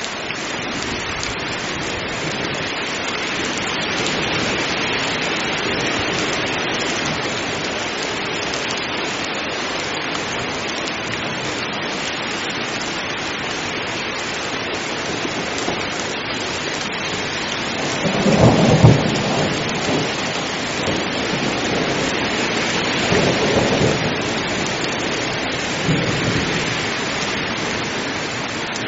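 Heavy rain falling steadily in an even hiss, with a loud rumble of thunder about two-thirds of the way through and two fainter rumbles after it.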